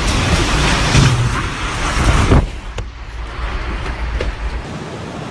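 Typhoon-strength wind gusts blasting across the microphone in a loud rushing roar with heavy low rumble, easing to a quieter steady rush about two and a half seconds in.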